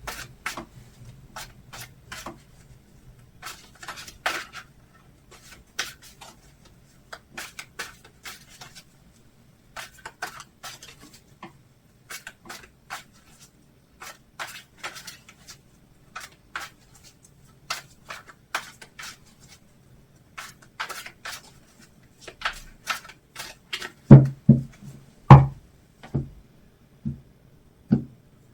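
Tarot cards being shuffled by hand: a run of irregular soft card slaps and rustles, with a few louder knocks near the end.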